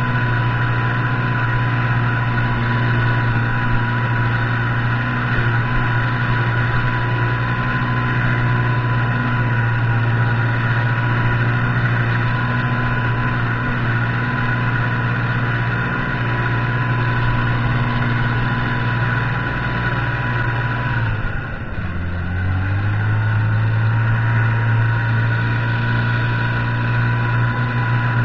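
Buran snowmobile's two-stroke engine running at a steady speed. Its note dips briefly about three quarters of the way through, then settles again.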